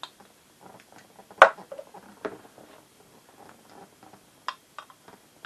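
Small clicks and knocks as torches and a beer glass are handled, with one sharp click about one and a half seconds in.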